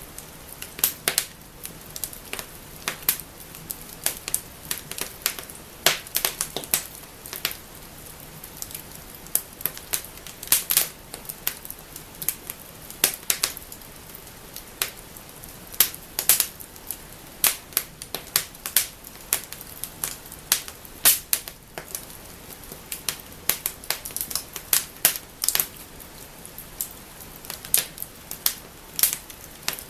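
Wood fire burning in a fireplace, crackling and snapping with many sharp, irregular pops over a faint hiss.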